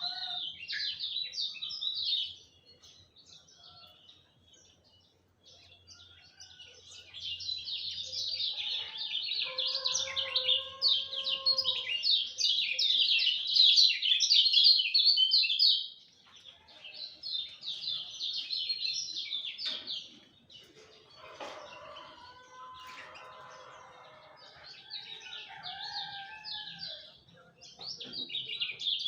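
Kecial kuning songbird singing long, fast, chattering phrases of high chirps, broken by short pauses: a quiet spell a few seconds in and brief breaks later. Fainter, lower calls sound in the background twice.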